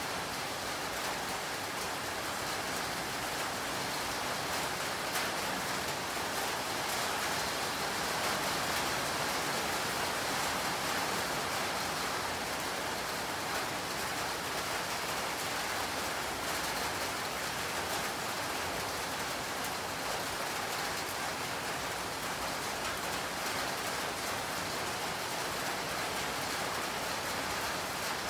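Steady rain falling, an even hiss that holds at one level without pauses.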